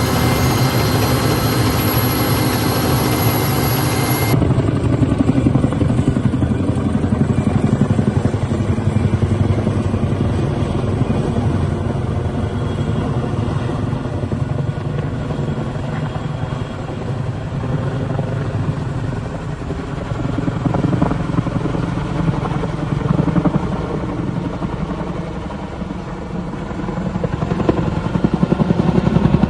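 A helicopter's rotor and engine running steadily, the sound changing abruptly about four seconds in and swelling louder twice near the end.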